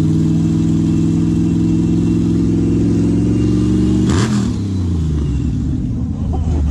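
Twin-supercharged 427 Chevy V8 of a custom motorcycle held at high revs, then the throttle is let off about four seconds in: a short burst of hiss and the engine speed falls away toward idle.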